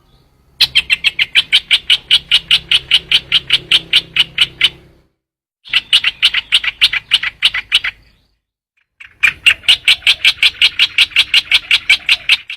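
Bird call of the species known in Vietnamese as trao trảo, played as a decoy recording: a fast, even chatter of sharp notes, about seven a second. It comes in three bursts: a long one of about four seconds, a shorter one after a brief pause, then a third lasting about three seconds.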